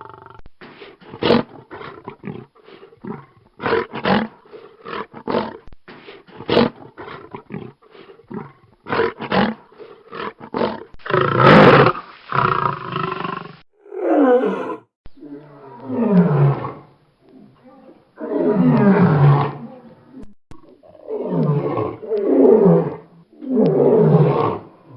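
African lion roaring: a run of short, quick grunts, then from about halfway a series of long roars, each falling in pitch and repeated every couple of seconds.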